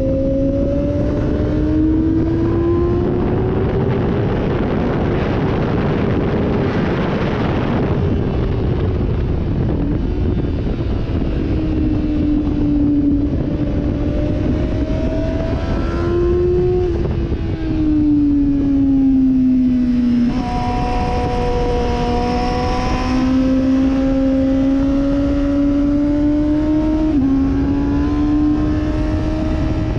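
Sportbike engine running hard at track speed, its pitch rising and falling with throttle and shifts, with a few sudden steps in pitch, over a heavy steady rush of wind noise.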